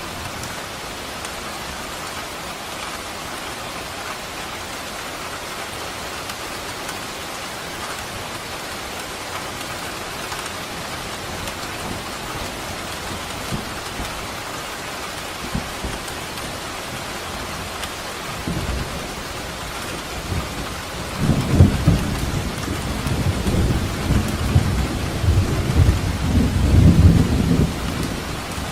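Steady rain falling in a continuous hiss. About two-thirds of the way through, a low rolling rumble of thunder comes in and grows loud until near the end.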